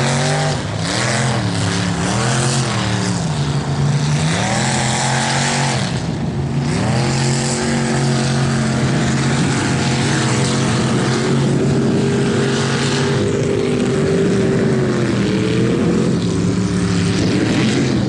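Bronco mega truck's engine revving hard and easing off again and again, its pitch rising and falling every second or two, as it bogs through deep, sticky mud.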